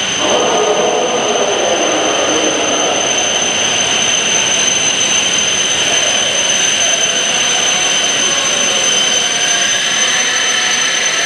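E7/W7-series Shinkansen train pulling slowly into the platform and braking. A whine falls in pitch over the first few seconds, over a steady high-pitched tone.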